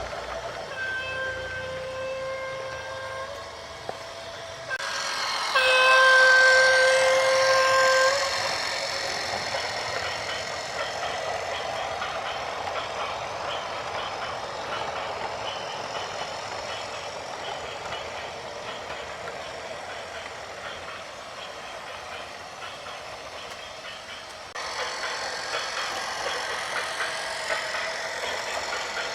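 Vehicle horn sounding in two long steady blasts, the second louder, over continuous vehicle and road noise.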